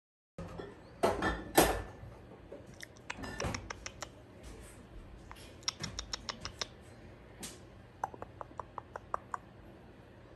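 Soft rustling with two louder scuffs about a second in, then scattered light clicks, including a quick run of about seven small ticks later on.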